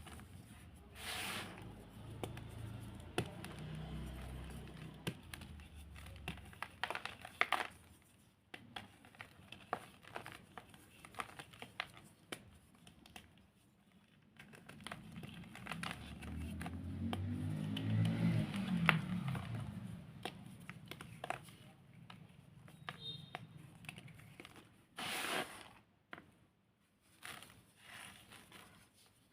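Blocks of reformed cornstarch crunched and crumbled close to the microphone: many small crackling crunches, with louder crunches about a second in, around seven seconds in and near the end, and a low rumbling stretch in the middle.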